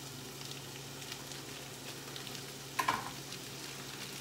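Raw ground turkey sizzling in a frying pan over a gas burner as it is squeezed out of its package, with one sharp clack a little under three seconds in.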